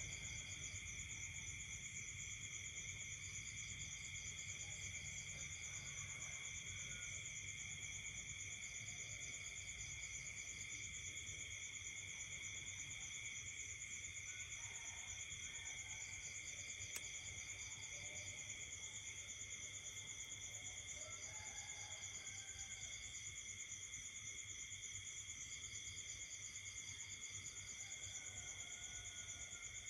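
Night chorus of crickets and other insects trilling steadily at several pitches, with a separate pulsed chirping that comes in short runs every few seconds and faint scattered frog croaks underneath.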